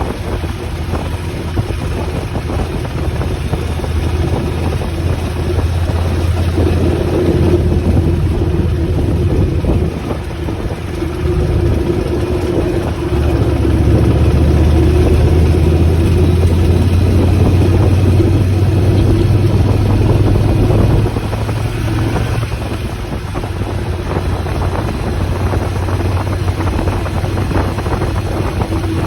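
Motorcycle engine running under way, a steady low drone that grows louder for several seconds past the middle and then eases back.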